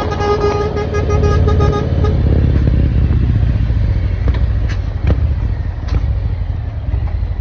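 Diesel engine of a new Scania truck running through an aftermarket exhaust diffuser, a deep steady exhaust rumble. A steady pitched tone sounds over it for about the first two seconds, then stops, and a few sharp clicks come later.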